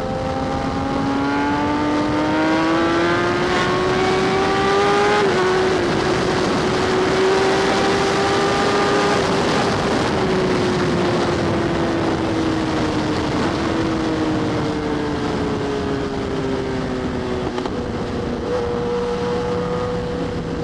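Sport motorcycle engine under way with wind rushing over the helmet mic: the revs climb steadily for about five seconds, an upshift drops the pitch slightly, then the engine holds and slowly winds down as the bike eases off.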